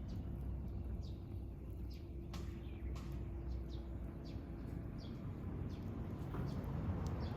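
Birds chirping outdoors: short, high, falling chirps repeating irregularly over a steady low rumble, with a couple of sharp crackles about two and three seconds in.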